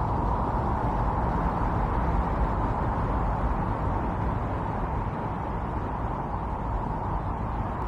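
Strong wind blowing steadily in a snowstorm, a dense rushing noise that swells slightly in the first few seconds and eases a little after.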